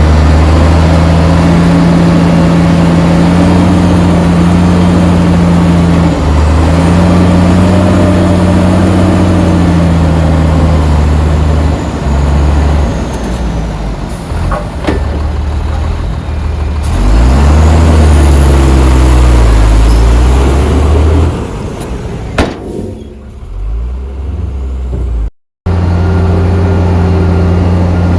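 Heavy diesel engine of earthmoving machinery running loud and steady, its pitch rising and falling as it revs under load partway through. The sound cuts out for a moment near the end, then the steady running returns.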